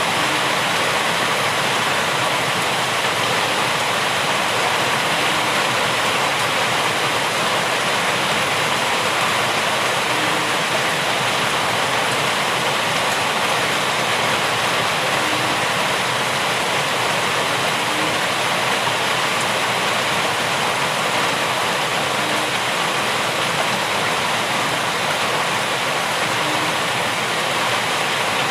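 Steady heavy rain: a dense, even hiss with no single drops, thunder or other events standing out.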